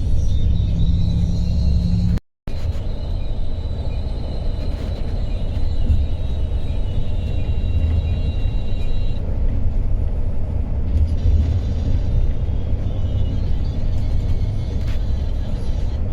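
Steady low rumble of a Yutong intercity coach under way, heard from inside the cabin, with faint music over it. The sound cuts out for an instant about two seconds in.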